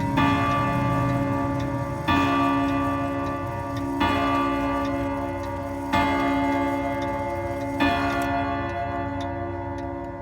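ODO 57 pendulum wall clock striking on its chime rods: five strikes about two seconds apart, each ringing on with many overtones, while the pendulum movement ticks steadily.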